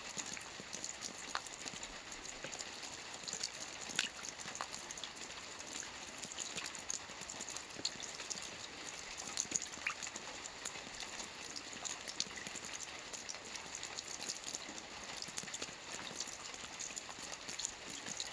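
Soft rain falling on a roof: a steady patter made of many small drop ticks, with now and then a single louder drop.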